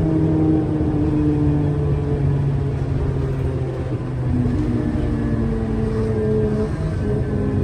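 Scania K320UA articulated bus engine running while the bus drives, with a steady low rumble. The engine note drops over the first couple of seconds and climbs again from about four and a half seconds in.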